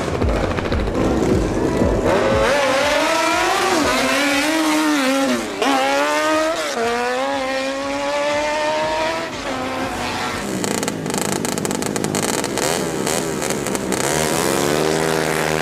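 Motorcycle engine being revved, its pitch rising and falling several times in quick succession, with a noisier stretch in the second half and another rise near the end.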